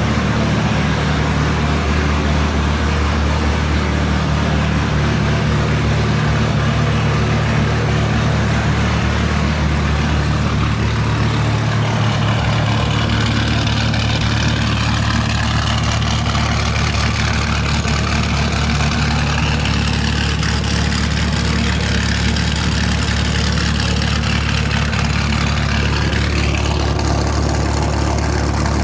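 1997 Dodge Viper GTS's 8.0-litre V10 idling steadily during a cold start.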